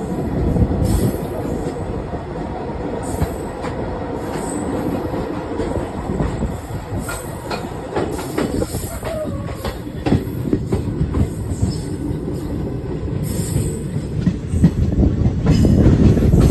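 Express passenger train running along the track: a steady rumble of the wheels on the rails with frequent clicks and rattles.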